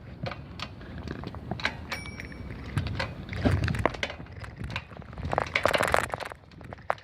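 Bicycle making an unexplained noise: irregular sharp clicks and rattles, with a brief high squeak about two seconds in and a louder scraping stretch near the end.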